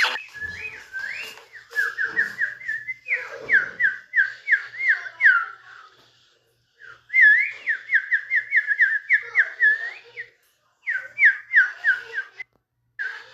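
Cartoon whistling sound effect: a quick warbling whistle of repeated pitch swoops, several a second, in three runs with short breaks between them.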